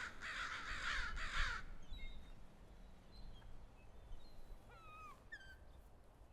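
Crows cawing: three harsh caws in quick succession in the first second and a half, then thin chirps and whistles from smaller birds.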